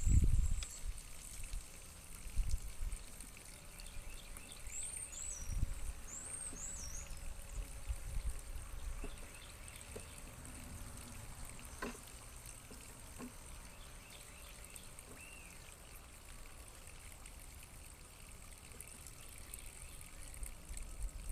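Quiet outdoor ambience: a few short, high chirps near the start and again several seconds in, with scattered low rumbles.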